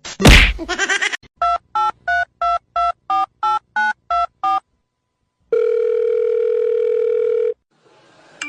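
A sudden loud burst of sound just after the start. Then comes a run of about ten short telephone keypad tones at about three a second, each at a different pitch, as a number is dialled. After a pause there is one steady telephone tone lasting about two seconds.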